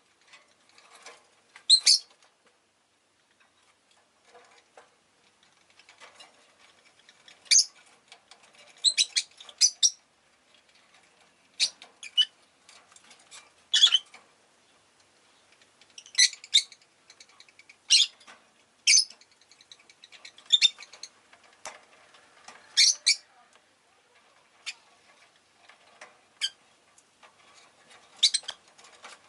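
Rosy-faced lovebirds giving short, shrill chirps and squawks, one or two at a time, every second or few.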